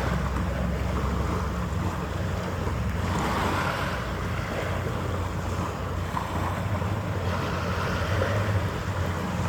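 Steady harbour ambience: a low rumble under wind noise on the microphone, with a whooshing haze that swells and fades every few seconds.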